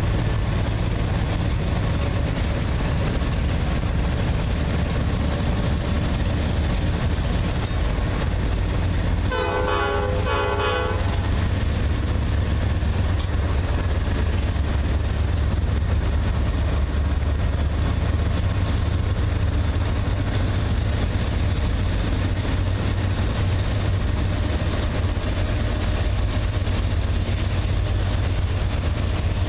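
Diesel freight locomotive running with a steady low drone. About nine seconds in, its air horn sounds two short blasts.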